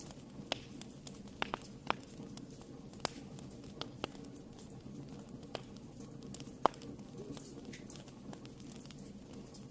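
Wood fire burning in a fireplace, with a steady low rumble of flames and irregular sharp crackles and pops from the burning logs, the loudest about 6.7 s in.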